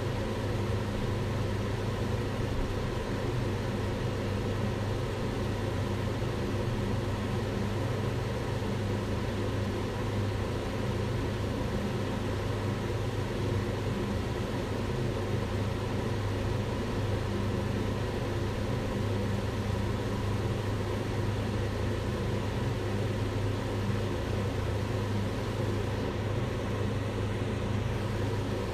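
Kitchen range hood fan running steadily: an even rush of air over a constant low motor hum.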